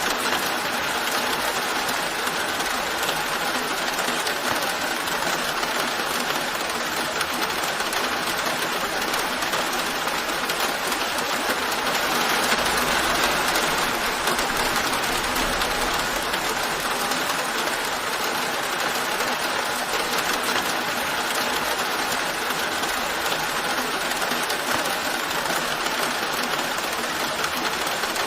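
Steady rainfall, an even hiss without a break, swelling slightly about halfway through.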